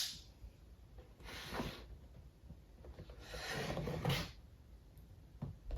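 A blade scraping through a cardboard box's seal in two strokes, a short one about a second in and a longer one about three seconds in.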